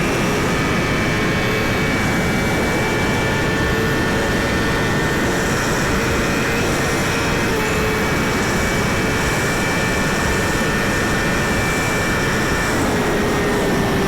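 Suzuki GSX-R1000 inline-four engine running at a steady high speed, under heavy wind rush on the rider's microphone.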